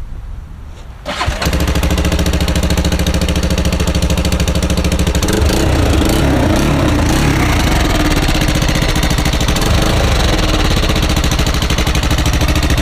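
Honda 400EX quad's single-cylinder four-stroke engine starting about a second in and idling loudly through a newly fitted custom muffler in place of its straight pipe. The idle wavers briefly around the middle, then settles.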